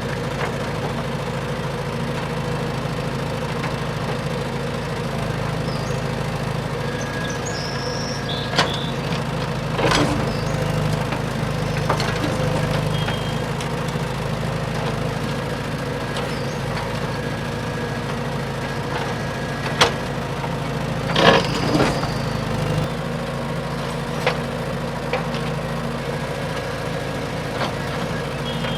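Radio-controlled dump truck running with a steady engine-like hum, broken by several sharp knocks and cracks, the loudest a little past the two-thirds mark.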